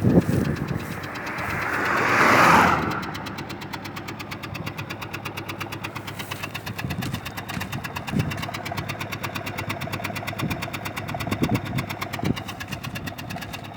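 Toyota 4S-FE four-cylinder engine idling with a fast, even knocking tick, the knock the owner is recording. In the first few seconds a rushing noise swells and then cuts off, and a few louder low thumps come later.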